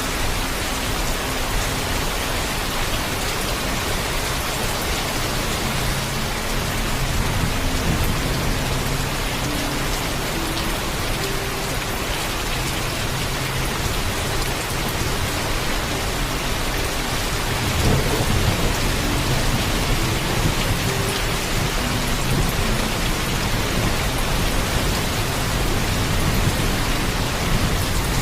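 Heavy, steady rain with low thunder rumbling through it. A louder roll of thunder comes about two-thirds of the way in.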